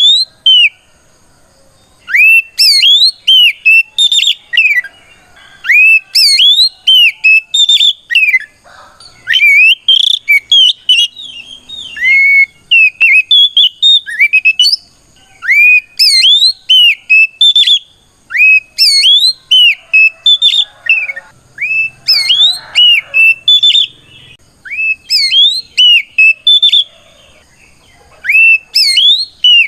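Oriental magpie-robin (kacer) singing loudly in its fighting song: rapid clear whistled notes sweeping up and down, in phrases broken by short pauses. It is a challenge song calling out rival males.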